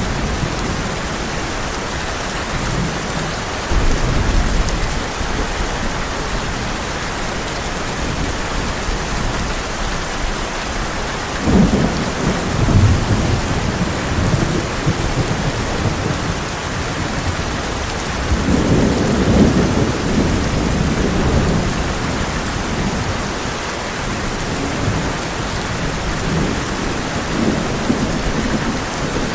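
Heavy rain drumming steadily on a tin roof, with thunder rumbling several times. A sharp clap about eleven seconds in rolls into a rumble, and a longer rumble comes near the middle.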